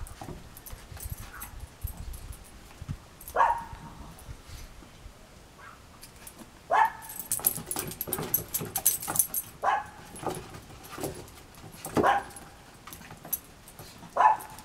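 Small Chorkie puppies at play giving about five short, high yipping barks a few seconds apart, with light scratching and clicking in between.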